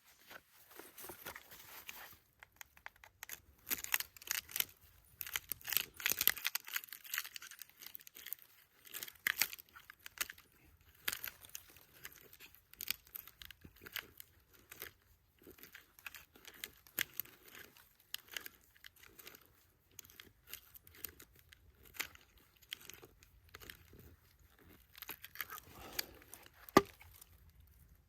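Irregular crinkling and tearing handling noises with many scattered sharp clicks and crackles, coming in busy spells with quieter gaps, and one sharper click near the end.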